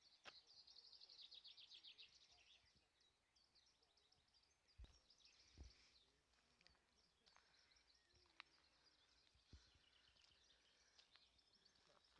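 Faint songbird song: a fast run of high repeated notes in the first two seconds, then scattered chirps and short phrases. A few soft low knocks come about five seconds in and again near ten seconds.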